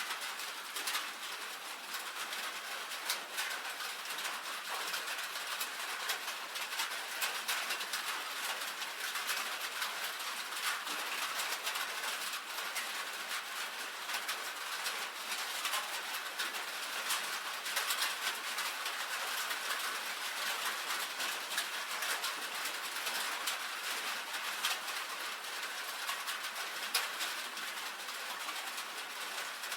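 Rain falling on a tin roof: a steady patter of many drops, with frequent sharper ticks of single drops striking the metal.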